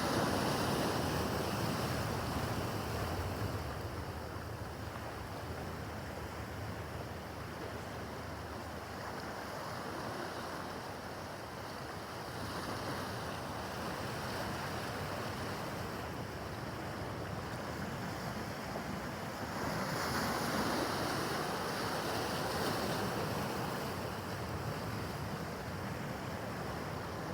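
Rough harbor water washing and splashing, with wind buffeting the microphone. The noise swells a little at the start and again about twenty seconds in.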